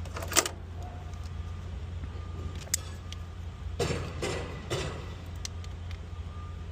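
Handling noises from tools and hose parts during a repair: a sharp click shortly after the start, a lighter click, then three brief scrapes, over a steady low hum.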